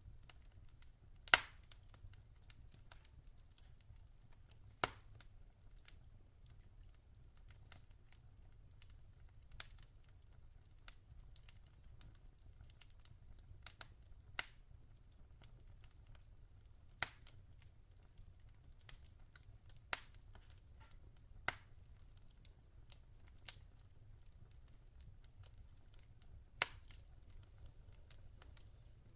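Log fire crackling: sharp, scattered pops every second or two over a faint low rumble, the loudest pop about a second in.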